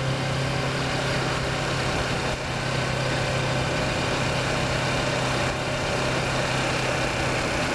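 Kawasaki Versys motorcycle engine running at a steady, easy pace while riding, one even engine note over a constant hiss.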